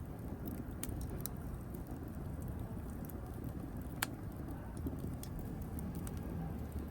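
Wood fire burning: a steady low rush of flames with scattered sharp crackles and pops from the burning wood, the loudest a single sharp crack about four seconds in.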